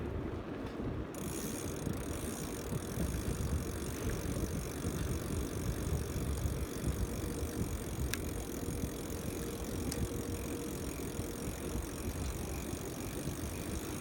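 Wind rumbling on the microphone during a BMX bike ride, with a faint steady hum for a few seconds in the first half and a couple of light clicks.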